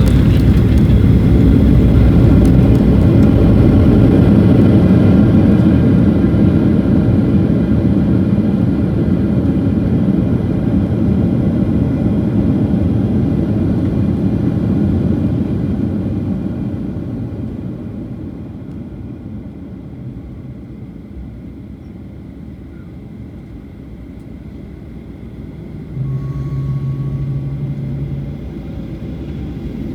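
Jet airliner engines, a loud low rumble that fades away over several seconds as the aircraft moves off. Near the end a steady low hum sounds for about two seconds.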